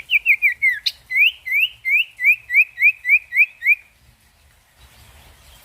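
Common iora (sirtu) singing a fast series of short whistled notes, about three to four a second. The first few slide down and the rest sweep upward, and the song stops about four seconds in.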